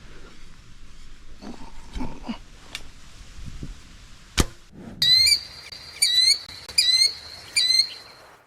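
Four loud, high-pitched bird calls about a second apart, each ending in a quick upward hook, preceded by a sharp click.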